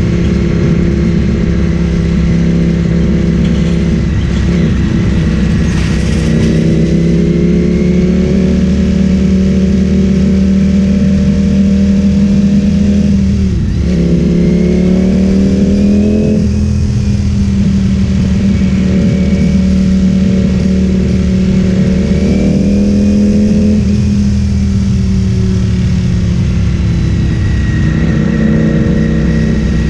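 Ducati Streetfighter V4S V4 engine through an Akrapovic full-system exhaust, ridden through town. The engine note climbs under throttle and eases off several times, with a quick break and drop in pitch about halfway through where the gear changes.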